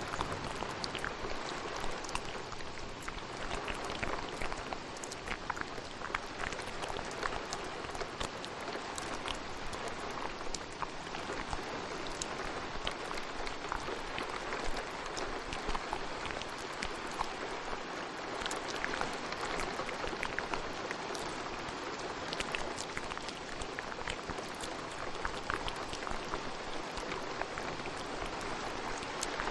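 Steady rain, layered with many short ASMR mouth clicks and pops scattered throughout.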